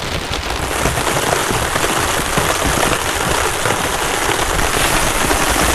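Heavy rain pouring down steadily, a dense, even patter of many drops that picks up slightly about half a second in.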